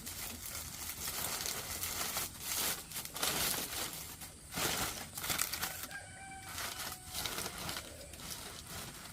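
Irregular crinkling and rustling, with a brief chicken call about six seconds in.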